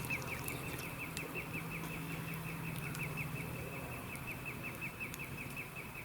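A bird calling in a steady, rapid series of short high chirps, about five a second, over a faint low hum that fades out about four seconds in.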